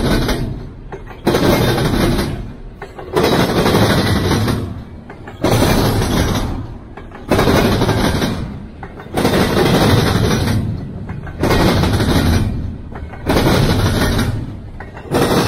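Double-stack intermodal freight cars rolling past at close range. A loud rush of wheel and rail noise jumps up sharply about every two seconds, then fades, as each car goes by.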